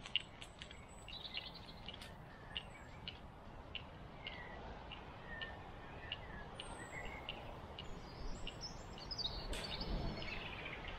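Faint woodland birdsong: many short chirps and a few quick whistled glides from several small birds, over a quiet background hiss.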